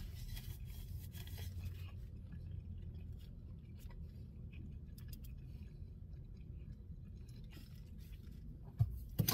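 A man chewing a mouthful of cheeseburger with his mouth closed: faint, soft chewing sounds over a steady low hum.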